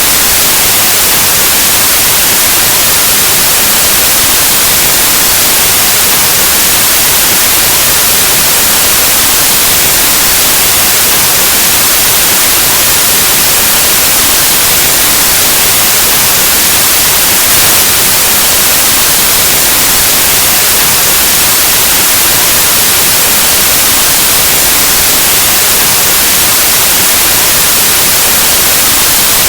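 Loud, steady white noise: an even, unchanging hiss like analog TV or radio static.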